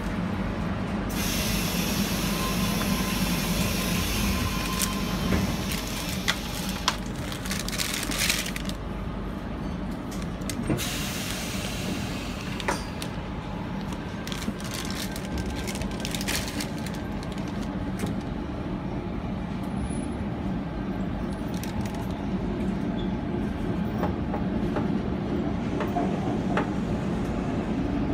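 Tangara electric train running, heard from inside the carriage by the gangway doors: a steady low rumble of the wheels on the rails, with hiss that swells and fades and a few sharp clicks and knocks.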